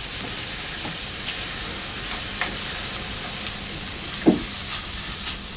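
Food sizzling steadily in a hot pan, with a few brief knocks of cooking utensils.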